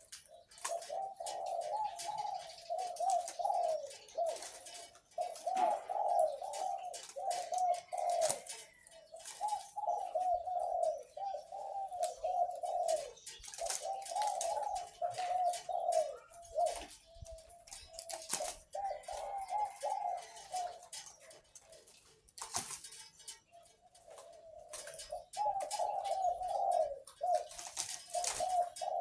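Captive-bred dove, bred for a deep voice, cooing steadily: rolling, trilled coo phrases repeated one after another with short pauses. Faint high chirps and clicks sound in between.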